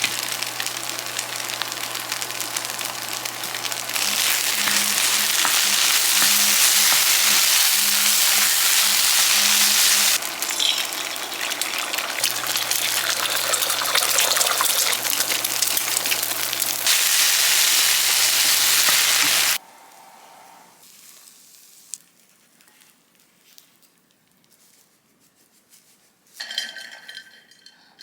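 Food sizzling as it fries in a pan: a loud, steady hiss that jumps in level a few times and cuts off suddenly about two-thirds of the way through. A few light clinks of kitchenware near the end.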